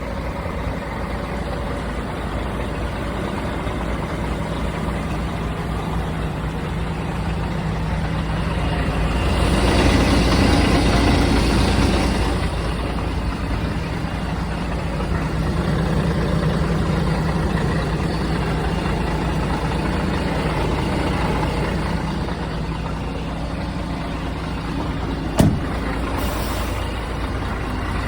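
Scania R420 truck's 12-litre inline-six diesel running steadily with a low hum. It swells louder for a few seconds about ten seconds in, and a sharp click comes near the end.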